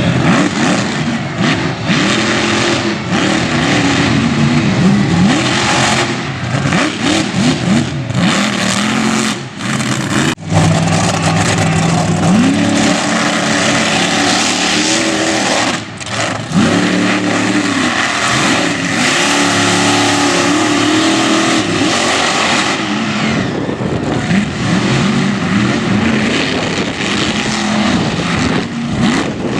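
Sheer Insanity monster truck engine revving hard and continuously, its pitch climbing and falling again and again under throttle, with brief drops about 10 and 16 seconds in.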